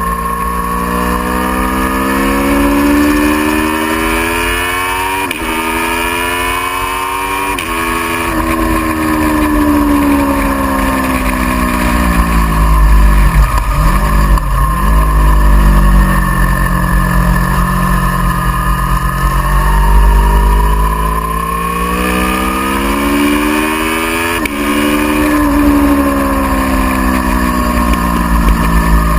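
Aprilia Tuono V4R's 1000 cc V4 engine at track pace: it pulls hard with rising pitch and upshifts twice a few seconds in, its note falls through the middle under braking with quick dips of downshifts, then it climbs again to another upshift near the end. Heavy wind rumble on the microphone throughout.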